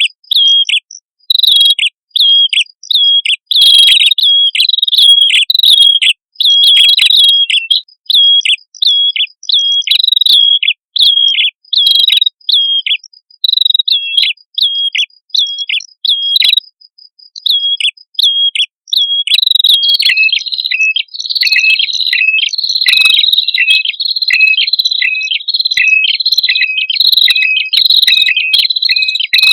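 Prenjak kepala merah songbirds calling in a fast, steady series of short, sharp chirps. About two-thirds of the way through, the notes crowd together and overlap, as if a second bird joins in.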